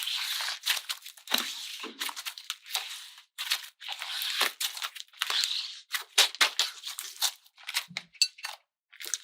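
Close crackling and crinkling with many sharp snaps and clicks, coming in short bursts with brief pauses, as crunchy material is handled.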